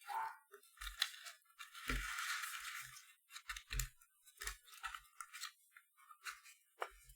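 Paper being scored and folded by hand: scattered clicks and taps, with a longer crinkling rustle about two seconds in.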